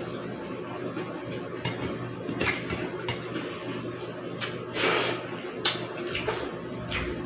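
A person eating a meal of pork sinigang soup and rice: scattered short clicks and soft clatters, with a few louder ones, over a steady low hum.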